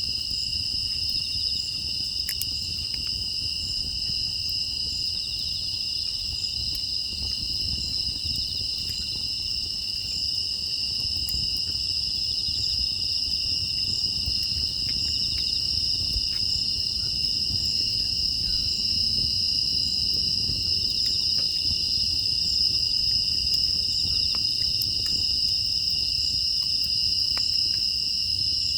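Steady, unbroken chorus of crickets and other grass insects, a shrill high trill, with faint scattered crackles and a low rumble underneath.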